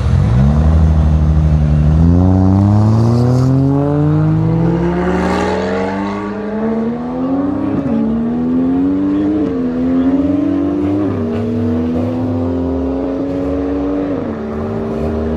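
McLaren 720S twin-turbo V8 with a Capristo exhaust under full-throttle acceleration. The revs climb steeply at first, then keep rising through the gears with several quick upshifts in the second half, and settle to a steadier note near the end.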